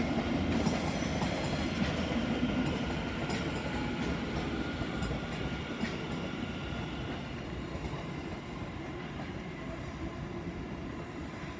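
A train moving along the platform, a steady rumble with wheel-on-rail noise that slowly fades.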